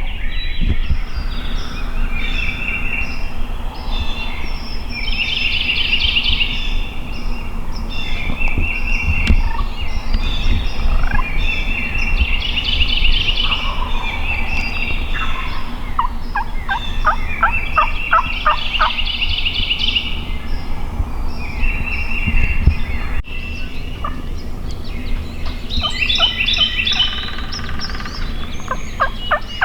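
Wild turkeys gobbling from the roost, several birds answering one another in repeated rapid, rattling gobbles.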